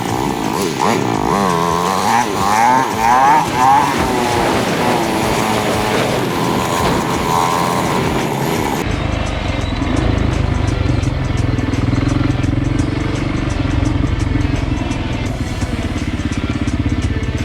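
Dirt bike engines revving, their pitch rising and falling as they ride. About nine seconds in the sound cuts abruptly to a steadier engine running close by.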